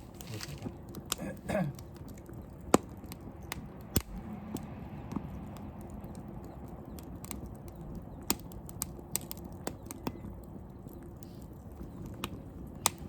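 Wood bonfire crackling: irregular sharp pops and snaps, two of them louder a few seconds in, over a low steady rustle of burning.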